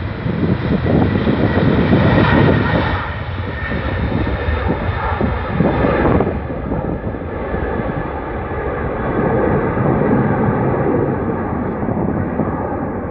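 Boeing 747-400's four GE CF6-80C2 turbofan engines at takeoff power, a loud steady jet roar. About six seconds in the higher part of the roar falls away as the jet draws off.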